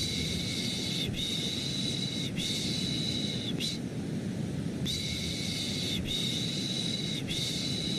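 Baby-calming 'shh, shh, shh' shushing: three hissing shushes about a second each, a pause of about a second, then three more. Under them runs a steady, deeper white-noise rush.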